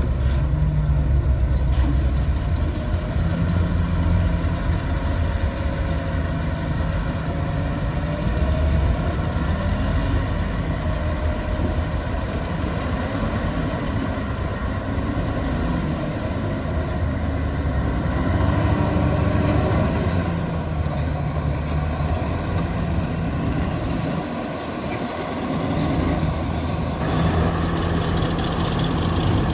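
Heavy diesel construction machinery running, its engine note shifting up and down with the work, and easing off briefly near the end.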